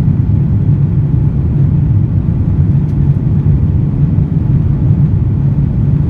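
Steady, loud, low cabin rumble of an Airbus A350-900 airliner in flight, heard from inside the cabin.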